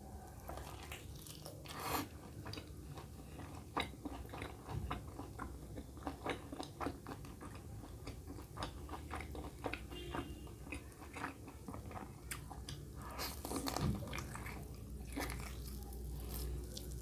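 Close-up mouth sounds of a person eating mutton curry with rice, raw green chilli and salad: biting, chewing and many sharp crunches, a few of them louder.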